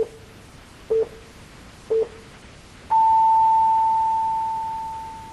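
Broadcast time-signal tones: three short low pips a second apart, then a long higher tone that slowly fades. The signal marks the start of the one-minute moment of silence.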